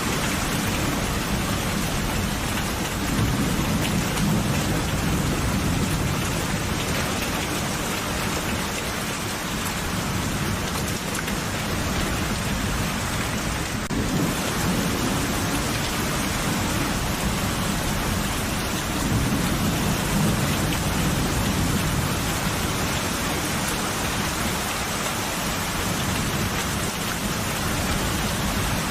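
Steady rain falling, with low rolling thunder that swells twice, a few seconds in and again about two-thirds of the way through.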